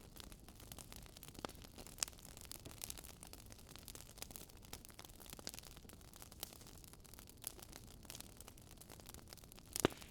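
Wood fire crackling: a steady faint hiss with irregular small pops and snaps, and one sharper pop near the end.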